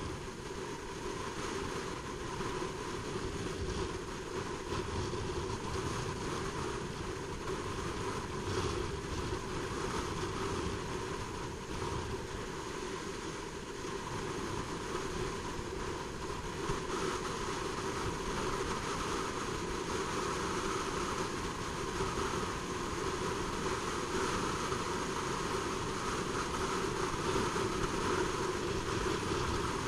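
Honda CBR600RR inline-four sport bike being ridden at a fairly steady speed: engine running evenly under wind and road noise, getting slightly louder toward the end.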